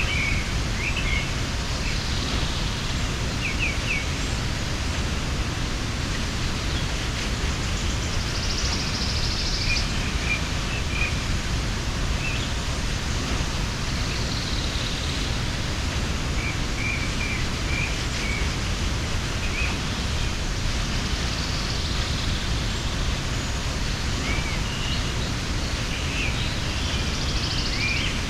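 Waterfall rushing steadily, with small birds chirping now and then over the water.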